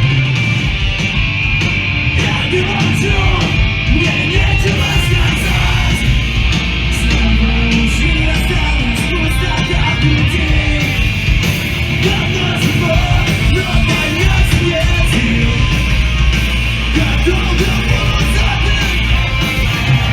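A live punk/emo-hardcore band playing loudly, with electric guitars and drums under yelled vocals.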